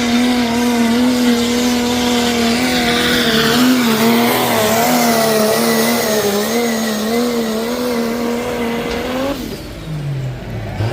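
1971 Chevy pickup's turbocharged engine held at high revs under full load while pulling the sled, its pitch steady with slight wavering. The engine drops off sharply about nine seconds in as the throttle is let off at the end of the pull.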